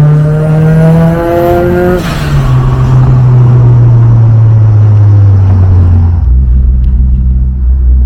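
Car engine pulling hard with its pitch rising, then a sudden drop at a gear change about two seconds in, after which the note falls steadily as the car slows, stepping down to a lower note around six seconds in.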